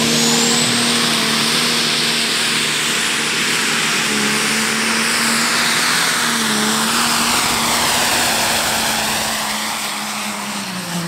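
Pro Stock class turbo-diesel pulling tractor, over 2000 hp, running flat out at a steady pitch as it pulls the sled, with a high whistle rising early and then holding above it. The engine grows a little quieter near the end.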